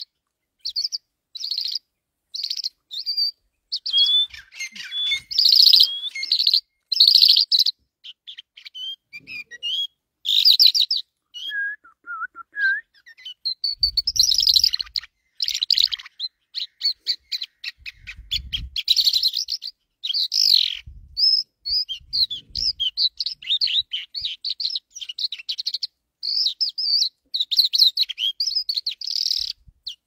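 Birds chirping: a nearly continuous run of short, high chirps and rapid chattering trills, with one lower call about twelve seconds in.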